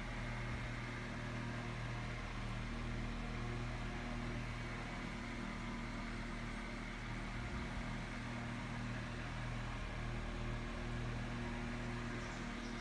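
Holmes Blizzard 7-inch table fan running steadily: an even rush of air with a constant low motor hum and a faint high whine.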